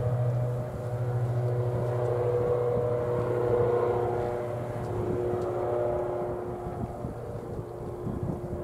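An engine running steadily, with a low hum and several steady higher tones, easing off a little near the end.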